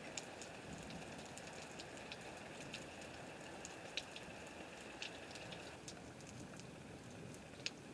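Heavy rain falling: a steady faint hiss with scattered ticks of drops landing, a few slightly louder around four and five seconds in and again near the end.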